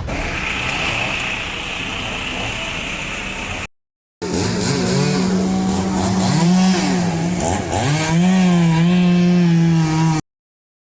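Chainsaw running and cutting, its pitch sagging and recovering as the chain bites into the wood. It comes after a noisy stretch and a brief break about four seconds in.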